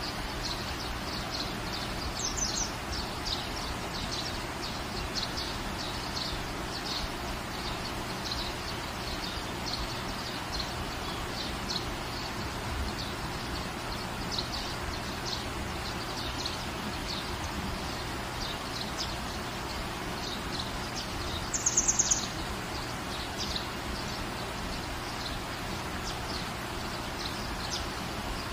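Steady rain falling, with small birds chirping repeatedly in short high calls over it. About three-quarters of the way through, a louder quick run of higher chirps stands out.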